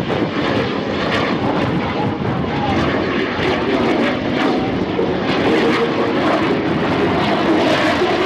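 Twin-engine CF-18 Hornet jet fighter flying overhead: a loud, steady rush of jet engine noise that grows slightly stronger toward the end.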